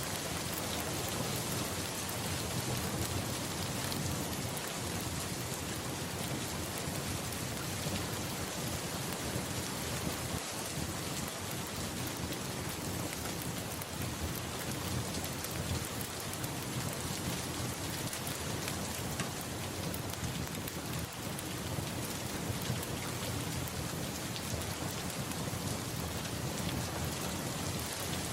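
Steady rain falling, with a low rumble of thunder running under it.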